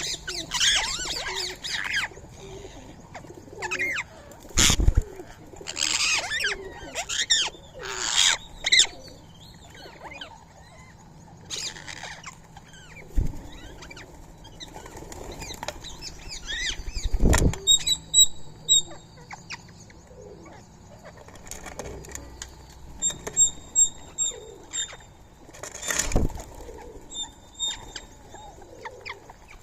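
Rose-ringed parakeets screeching and flapping their wings, with a few loud, sudden flurries of wingbeats. In the second half, rows of short, high chirps repeat quickly.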